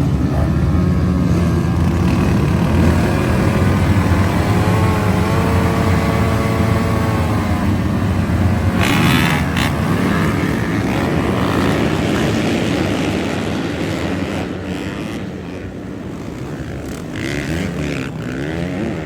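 A pack of dirt bikes accelerating away from the start line together, many engines revving over one another. The sound thins out after about 14 seconds as the bikes pull away.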